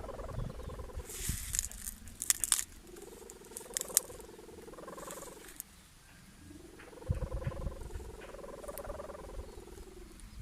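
A kite's sendaren hummer, a bow with a taut ribbon, buzzing in the wind. Its drone swells and rises in pitch, then sinks away, three times as the wind gusts and drops. There are short crackles of wind on the microphone in between.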